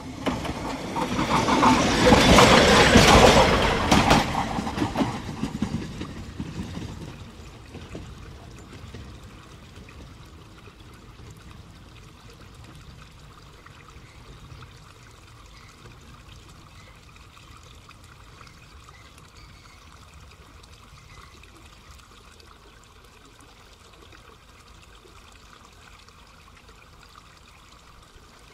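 Electric train running past close by: a loud rumble and clatter of wheels on rail that swells to a peak about two to four seconds in, then dies away over the next few seconds to a faint steady hiss.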